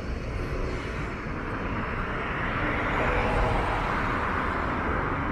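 Motor vehicle engine and tyre noise swelling as it passes on the street.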